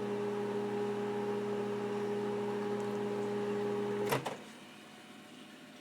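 Microwave oven running with a steady electrical hum, then a sharp click about four seconds in as it shuts off, and the hum stops.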